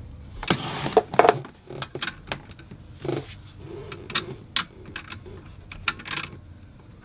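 Hand tools and metal parts clinking and knocking in irregular sharp clicks, during work on a marine engine's alternator belt drive.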